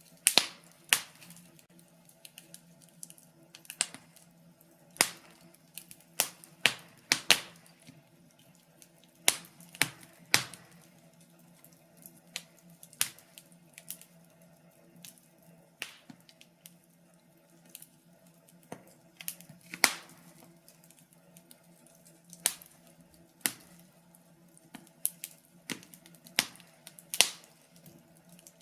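Wood fire crackling: irregular sharp pops and snaps, several of them loud, over a faint steady low hum.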